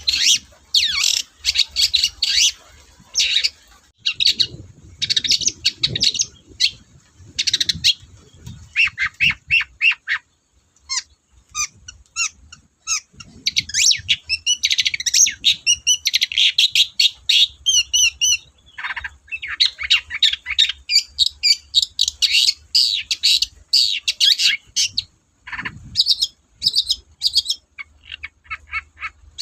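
Long-tailed shrike (cendet) singing loudly in rapid chattering phrases of short, harsh notes, with brief pauses between bursts.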